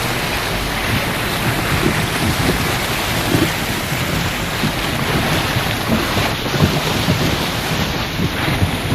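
Steady storm rain pouring down, with wind gusting on the microphone.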